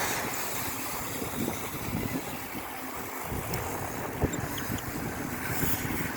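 Wind rushing over the microphone while cycling, over an uneven low rumble. There is a single sharp click about four seconds in.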